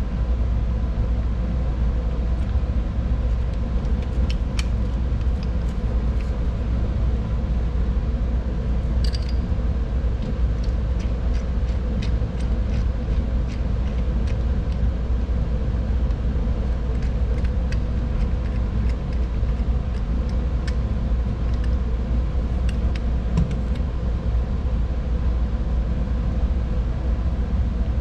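Steady low rumble of workshop background noise, with scattered faint metallic clicks and taps as bolts and a steel bracket are handled and fitted.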